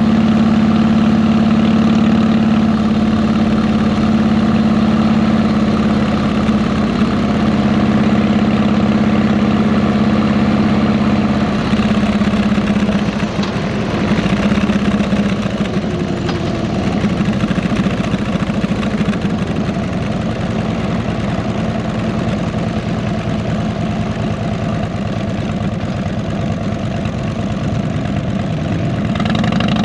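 Harley-Davidson Electra Glide Ultra Classic V-twin engine running through 33-inch fishtail mufflers. Its even note becomes rougher about twelve seconds in.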